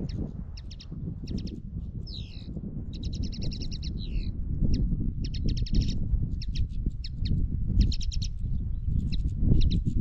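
Small birds chirping in short, quick trains of high notes, with a downward-sliding call about two seconds in and a longer rapid trill just after. Under them, an uneven low rumble of wind on the microphone, louder near the end.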